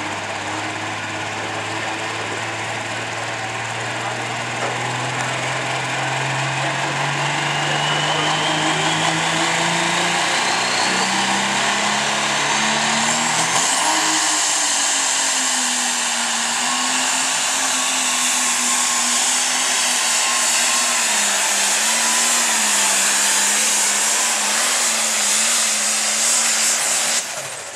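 Turbocharged diesel engine of an International Harvester 1206 pulling tractor at full throttle during a pull, with a loud turbo hiss and whistle. The engine note climbs steadily over the first dozen seconds, then holds and wavers up and down. It cuts off suddenly near the end.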